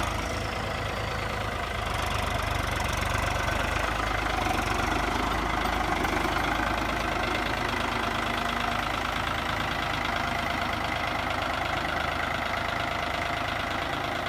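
Steady engine and running noise of a vehicle in motion, holding an even level throughout.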